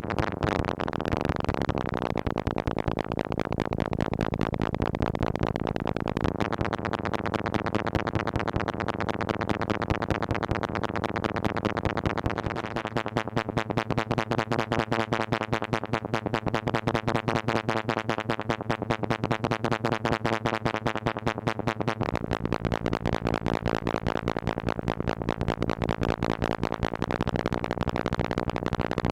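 Moog Mother-32 analog synthesizer being modulated by a Comdyna GP-6 analog computer: a rapid pulsing synth tone whose pitches and timbre jump to a new pattern every few seconds.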